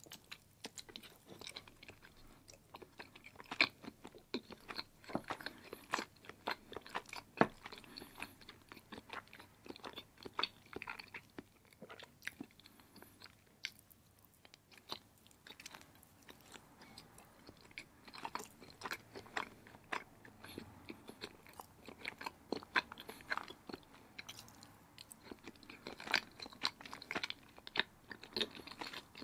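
Biting and chewing firm block cheese: a steady run of irregular, sharp mouth clicks.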